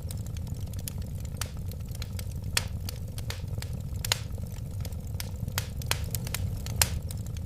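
Wood fire burning and crackling: a steady low rumble of flame with frequent sharp pops and snaps, a few of them louder.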